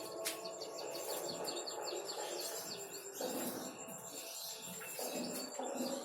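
Birds chirping with short, high twitters over a busy background, with a steady high-pitched trill running underneath.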